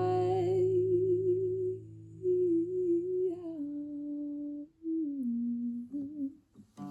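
A singer humming the closing melody: a held note with vibrato, then short wordless phrases with brief gaps, ending about six seconds in. A low guitar chord rings under the first two seconds and fades.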